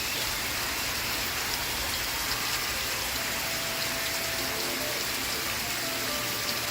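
Steady rain falling. From about halfway through, a faint song comes in underneath it.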